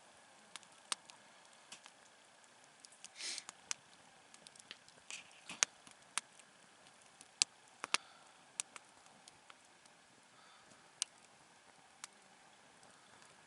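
Wood campfire crackling: irregular sharp pops and ticks of varying loudness, with two brief hisses about three and five seconds in.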